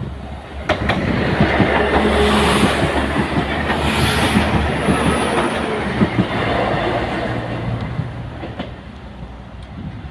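NIR Class 4000 diesel multiple unit passing over a level crossing: a steady rumble of engines and wheels that builds, holds and fades away, with sharp clicks as the wheels cross the rail joints.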